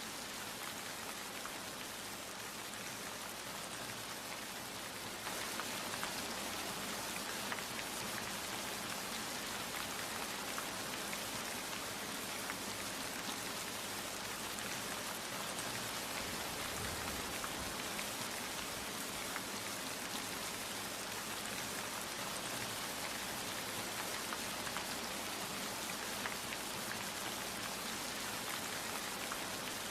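Steady rain falling: an even hiss with many small drop ticks. It gets a little louder about five seconds in.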